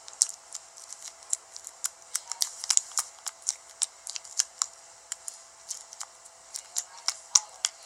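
Smooth, jiggly slime being pressed and stretched in the hands, giving quick, irregular, sharp clicks and pops, several a second.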